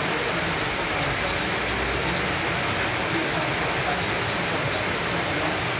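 Heavy tropical downpour: a dense, steady hiss of rain.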